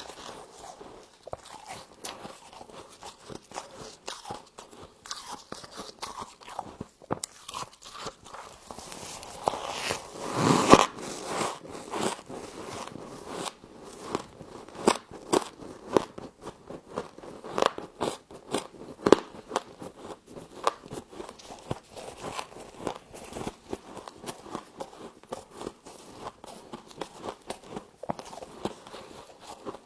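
Humidifier frost being bitten and chewed: a run of sharp, crisp crunches and crackles, with one louder, longer crunch about ten seconds in.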